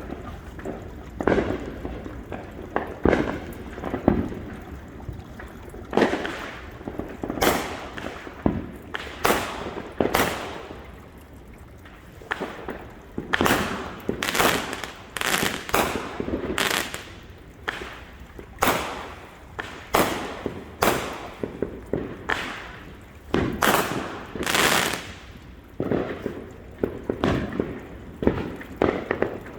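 Consumer fireworks going off in a long, irregular series of sharp bangs, many followed by hissing and crackling trails.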